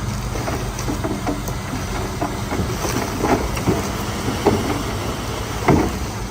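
Bulldozer running with a steady low engine drone, overlaid by irregular clanks and knocks every half second or so, the loudest near the end.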